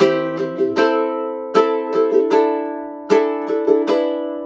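Ukulele strumming chords, with a fresh strum about every 0.8 seconds and each chord left ringing between strums.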